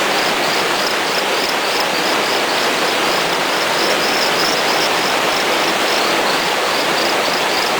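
Micrixalus saxicola (small torrent frog) calling: a steady run of short high-pitched notes, about three a second, over the loud steady rush of flowing water.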